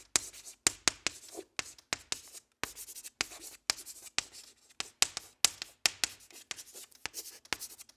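Quick, irregular scratching strokes, three or four a second, the kind of sound a pen makes writing on paper.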